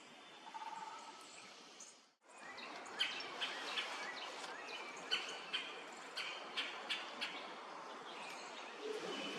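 Backyard birds chirping over a steady outdoor hiss. After a cut about two seconds in comes a run of about ten short, sharp ticks, a few a second.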